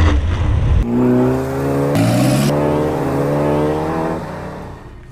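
Car engine accelerating hard through the gears. A deep rumble opens the sound, then the engine note climbs, drops at a gear change about two seconds in, climbs again, and eases off near the end.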